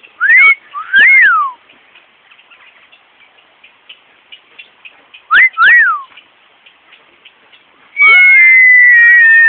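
Parrot whistling: two quick two-note phrases, each a rising note followed by a rise-and-fall, then a long whistle near the end that slowly slides down in pitch.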